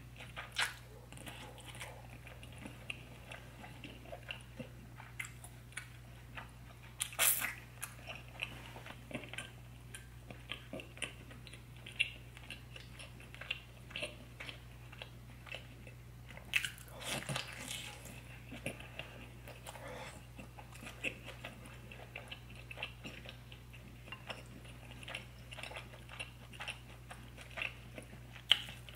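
Close-miked wet chewing and biting of sauce-soaked seafood meat, with many small mouth clicks and smacks. Louder bites come about seven seconds in and again around seventeen seconds, over a low steady hum.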